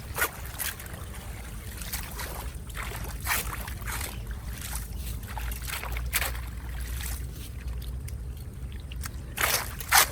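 Running floodwater with a steady low rumble, broken by sharp splashes and knocks, a cluster of them near the end.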